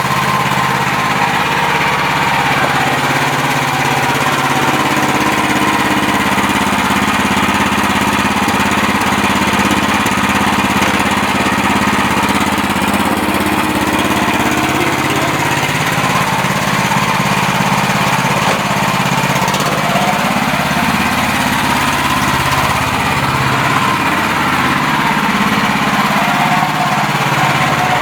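MTZ Belarus walk-behind tractor's new GX450-type single-cylinder petrol engine running steadily. Its note shifts a few times in the second half as the tractor is driven and put through its gears.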